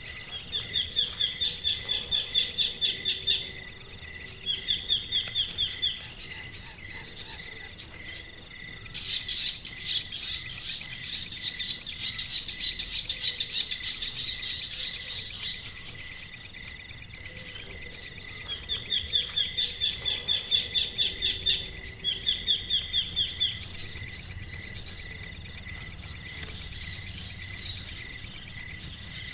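Rapid, steady, high-pitched pulsed chirping of crickets. Several times it is joined by short bursts of a second, lower trilling call.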